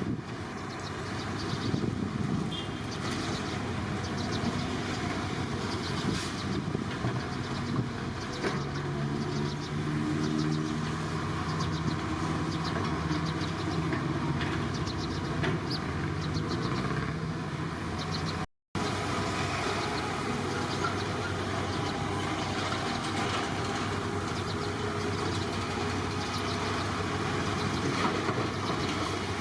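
Engines of heavy earthmoving machinery running steadily, one engine's note climbing and holding for several seconds in the middle. The sound cuts out for an instant about two-thirds of the way through.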